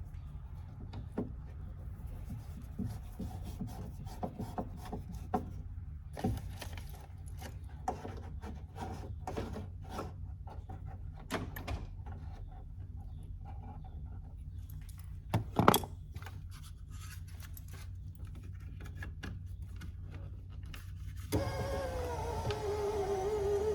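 Scattered clicks, taps and clunks of parts being handled in a car door, with one sharper knock about two-thirds of the way through. Near the end the driver's door power window motor starts running with a steady whine.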